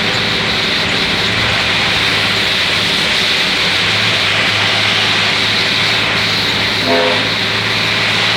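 Steady drone of a bus engine heard from inside the cabin, over a constant hiss of heavy rain and wet tyres on the road. About seven seconds in, a short horn blast sounds.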